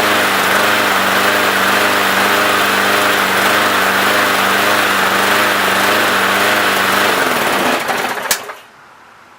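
Briggs & Stratton lawnmower engine running on its rebuilt carburetor, then dying about seven seconds in: it winds down in pitch and stops with a sharp click. The stall is unwanted.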